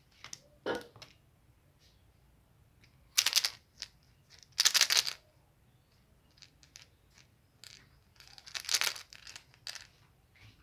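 Candy wrappers crinkling and tearing close to the microphone in four short bursts, with small rustles and clicks between.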